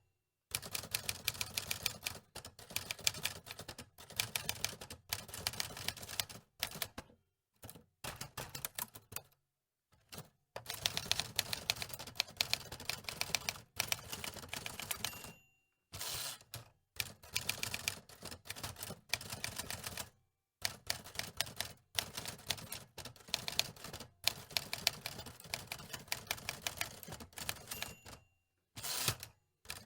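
Antique typewriter being typed on: keys clacking in quick runs of several strikes a second, broken by short pauses.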